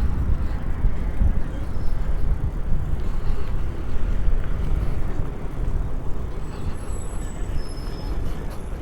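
Wind buffeting the microphone and road rumble while riding a Super73 electric bike, a steady low rushing noise. A few faint, thin high tones come in near the end.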